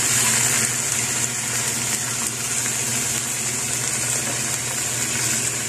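Chicken pieces and chopped onion sizzling in hot oil in a pot, a steady frying hiss.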